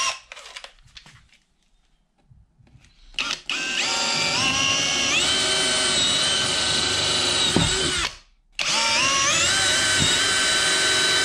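A power drill with a 5 mm bit drilling holes for drawer-handle screws. It runs in two bursts of a few seconds each with a brief stop between. Each time its whine steps up in pitch as it gets up to speed.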